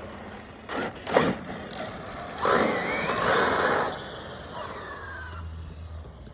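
Brushless-powered Traxxas XRT RC truck accelerating on pavement: a burst of motor and tyre noise with a rising whine, after two short sharp sounds, then a fainter whine as it runs on.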